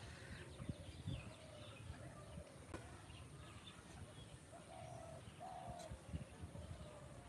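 Faint birdsong: a dove cooing twice, short low coos a little past the middle, among scattered faint chirps of small birds.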